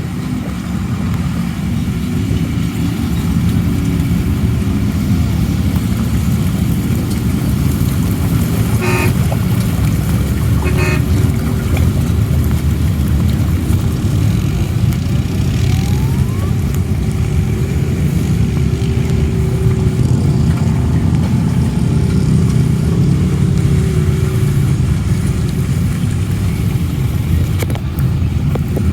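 Off-road vehicle engine running steadily, growing louder over the first few seconds, with two short horn toots about nine and eleven seconds in.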